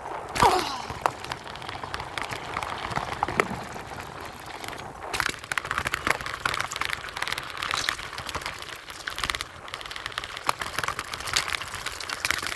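Bike ride over dirt jumps heard through a handheld phone mic: constant crackling and rattling handling noise with scattered knocks. A short falling squeal comes about half a second in.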